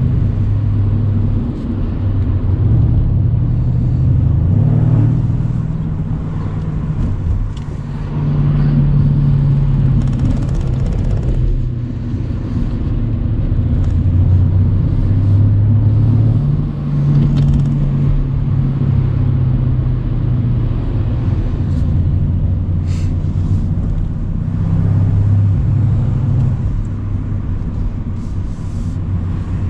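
Mercedes-AMG C63's twin-turbo V8 running under way on a country road, its deep note stepping up and down in pitch several times as the revs change.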